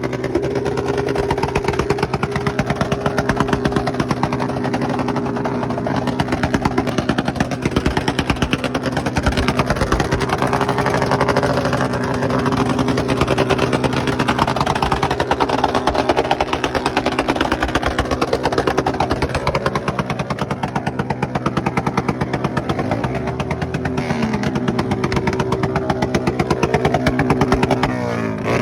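Motorcycle engine running at a steady speed over a steady rushing noise. The engine note slides up and down a couple of times near the end.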